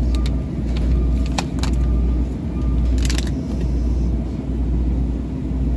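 Shopping cart rolling across a store floor: a steady low rumble from the wheels with scattered clicks and rattles of the cart's metal frame and goods.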